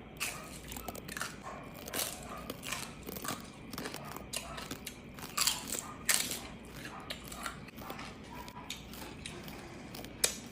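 Close-up eating sounds of crispy lechon: biting and chewing through crackling roast pork skin, with irregular sharp crunches, the loudest two a little past the middle.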